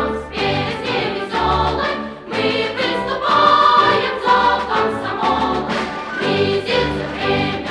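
A choir singing a song with instrumental accompaniment and a steady bass beat.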